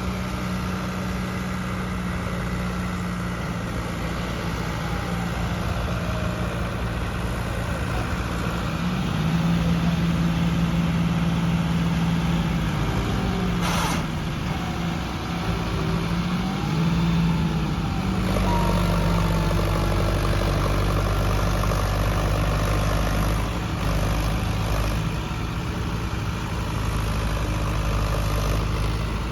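Tractor diesel engines running, their speed rising and falling between about nine and eighteen seconds in, with one sharp knock near the middle. From about eighteen seconds in, a deeper, heavier engine note takes over.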